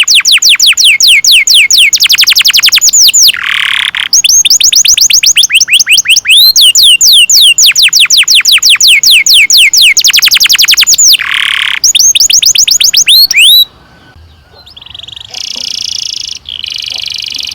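Domestic canary singing long rolled trills: fast runs of whistled notes that each fall in pitch, with a few buzzy notes mixed in. The song breaks off about 14 seconds in, and a quieter, steady roll starts a second or so later.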